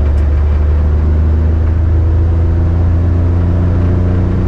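Mitsubishi Minicab's 660cc three-cylinder engine running steadily under load while the truck is being driven, a loud even drone.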